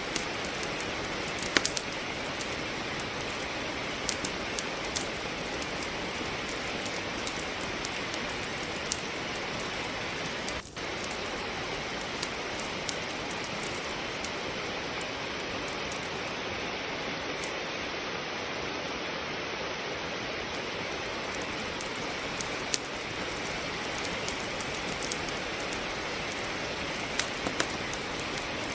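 Steady rain with the scattered sharp pops and crackles of a wood fire burning in a fireplace. The sound dips briefly about ten seconds in.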